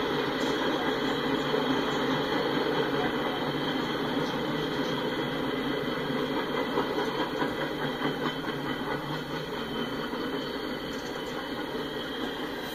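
Loaded freight train's steel hopper cars rolling past at speed: a steady rumble and rattle of wheels on rail, with a thin high ringing tone over it, easing off slightly in the last few seconds.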